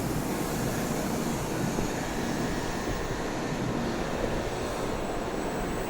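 Shinkansen train pulling out of the station: a steady running noise of motors and wheels, its highest hiss thinning about halfway through.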